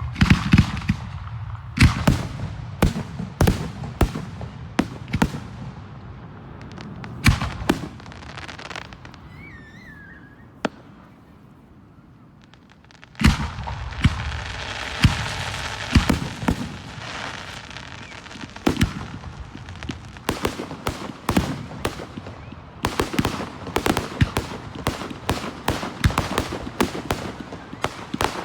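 Aerial fireworks going off in quick succession with sharp bangs and booms. There is a warbling whistle about nine seconds in and a brief lull. From about thirteen seconds on comes a dense barrage of crackling and reports.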